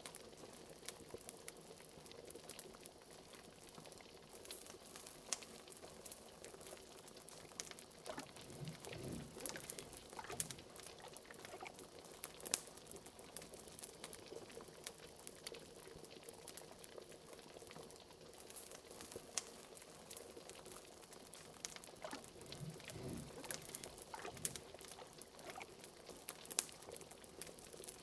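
A cauldron of liquid bubbling steadily, with a fireplace crackling and scattered sharp pops throughout. Twice, a few deeper gloops of bubbles stand out.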